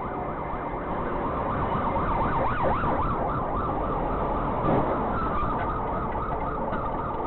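Emergency-vehicle sirens sounding in fast rising-and-falling sweeps, with more than one siren overlapping in the middle, over steady traffic noise.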